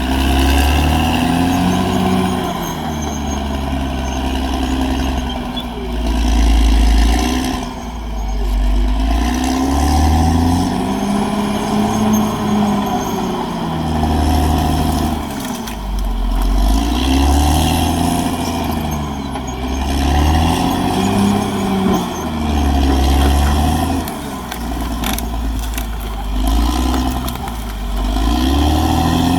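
Caterpillar D6R XL bulldozer's diesel engine working under load. Its pitch rises and falls over and over, every three to four seconds, with a heavy low rumble throughout.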